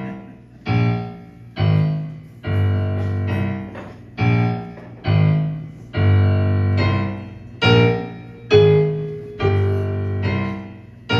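Piano playing a song's introduction: chords struck about once a second, each ringing out and fading, a few held longer.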